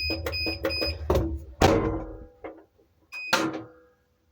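A hair trimmer rattling and knocking inside a spinning washing machine drum, fast knocks over the machine's low hum. About a second in come a few loud clanks that ring on. The hum stops soon after, and one more clank lands near the end.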